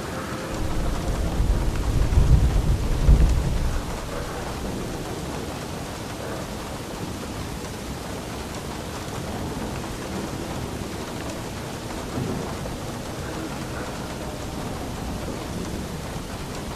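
Steady rain falling, with a rolling rumble of thunder that swells about a second in, peaks a couple of seconds later and dies away.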